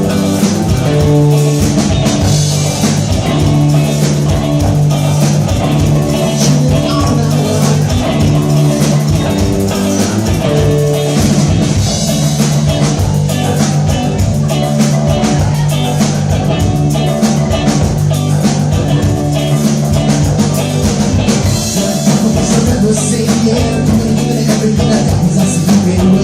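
Instrumental passage of a reggae song with no singing: a drum kit keeps a steady beat under guitar and bass.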